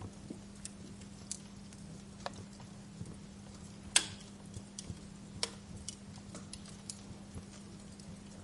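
Wood fire crackling: scattered sharp pops and snaps, the loudest about four seconds in, over a steady low hum.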